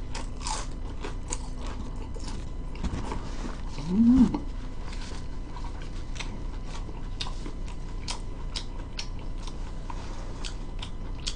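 Chewing a crispy pan-fried dumpling: a run of small crunches and mouth clicks, with a short hummed "mm" that rises and falls in pitch about four seconds in.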